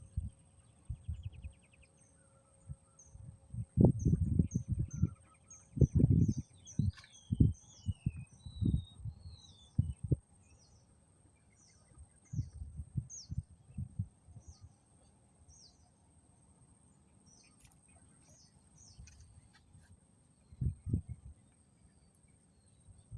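Small birds chirping in a quick series of short high notes, with a few falling whistles, while gusts of wind buffet the microphone in irregular low rumbles, loudest in the first third and again near the end.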